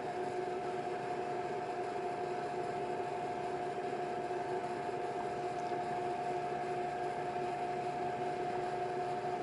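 Steady electrical hum with a constant tone and a soft hiss, as from a small fan or appliance motor running.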